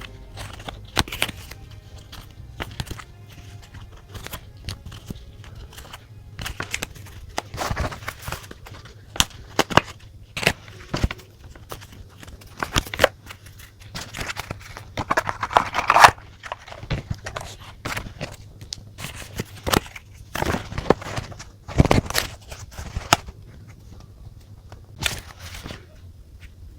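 Journaling sounds at a desk: irregular clicks, taps and short paper rustles as stationery is handled, with a longer rustle about fifteen seconds in. Faint background music fades out in the first couple of seconds.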